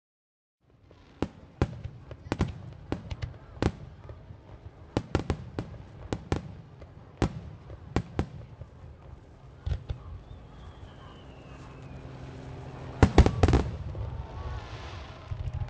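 Fireworks display: after a cut, a rapid series of sharp bangs from aerial shells bursting begins about a second in. About thirteen seconds in comes a dense cluster of rapid crackling reports, the loudest moment. Two long falling whistles sound in the latter part.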